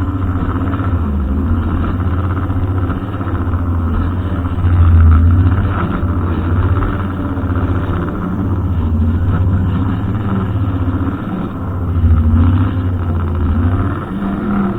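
Brushcutter engine running steadily with a deep hum, its pitch wavering slightly, growing a little louder about five seconds in and again near the end.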